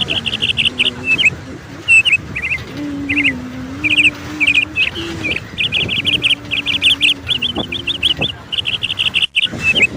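Small birds chirping and trilling in quick, repeated runs of high notes, over a low wavering hum.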